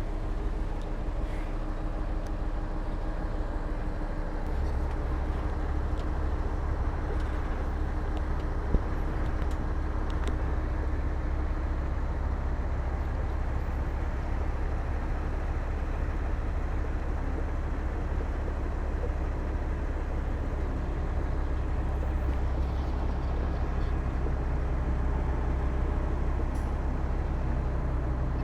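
Heavy diesel earthmoving machinery running steadily, a deep engine rumble that grows heavier about four seconds in, with a single brief knock near the middle.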